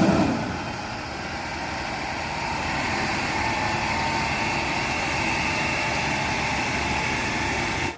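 A vehicle engine sound running steadily, starting with a short loud burst and cutting off suddenly.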